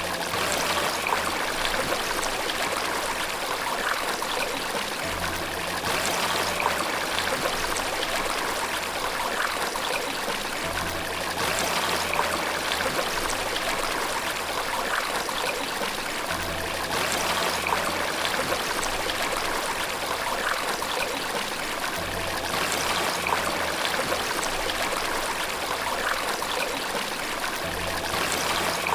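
Flowing water from a stream or small waterfall, a steady splashing rush. Beneath it a soft low tone sets in again about every five and a half seconds.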